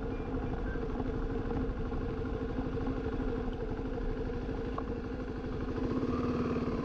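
Motorcycle engine running steadily at low revs, its pitch unchanging, with no revving.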